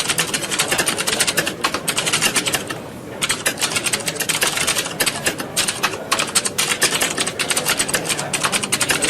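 Many people typing on computer keyboards at once: a dense, continuous clatter of key clicks, thinning briefly about three seconds in.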